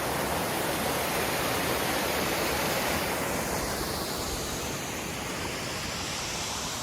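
Mountain waterfall pouring steadily, an even rush of water; its hiss turns a little duller about halfway through.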